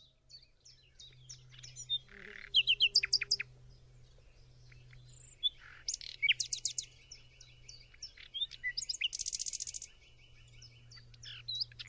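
Common nightingale singing a varied song of short whistles, chirps and fast trills, with a loud run of quick notes about three seconds in and a rapid even trill near the end. A faint steady low hum lies underneath.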